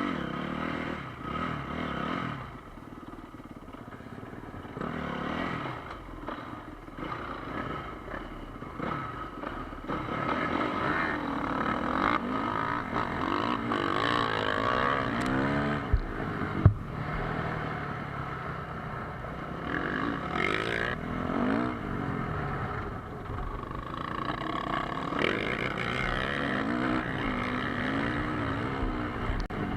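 Motocross dirt bike engines revving up and down as they ride, the pitch rising and falling again and again, with two sharp knocks about halfway through.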